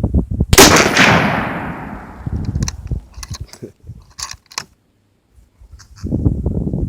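A single rifle shot about half a second in, firing a hot handloaded 168-grain round, with an echoing tail that fades over about a second and a half. A few light clicks and clacks follow.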